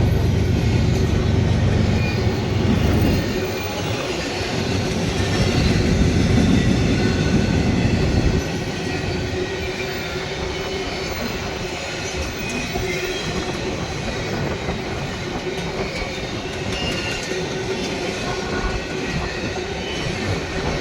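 Freight train rolling past: a heavy low rumble for about the first eight seconds, then the lighter steady rolling of the cars with faint wheel squeal.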